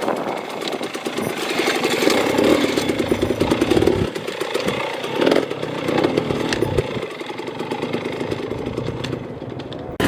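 Enduro dirt bike engine revving on and off, its note rising and falling with the throttle, then cutting off suddenly near the end.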